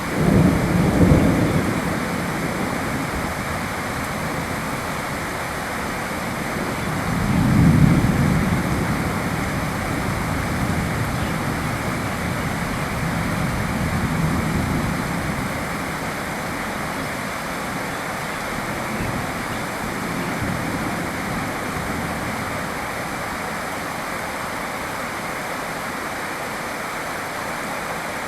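Steady rain. Low rumbles swell over it several times, loudest about a second in and again near eight seconds, then weaker ones fade out.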